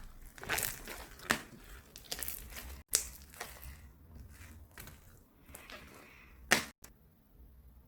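Handling noise: irregular crinkling and rustling with several sharp clicks, the loudest about six and a half seconds in.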